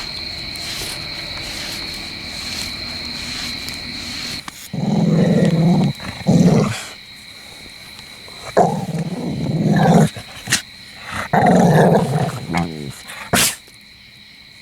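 Dog growling in four throaty bouts starting about five seconds in, over a steady chirring of insects that is loudest at the start.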